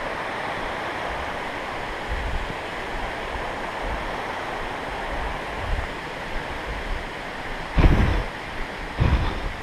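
Steady rush of a rocky creek's flowing water. Near the end come a couple of short low thumps.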